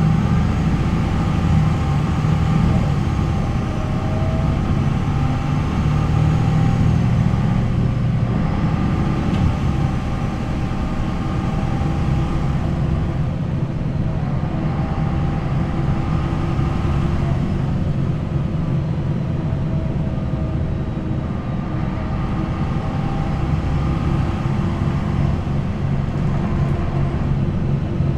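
MAN NL 263 bus's D28 diesel engine running steadily under way, its pitch drifting up and down a little, easing slightly about ten seconds in.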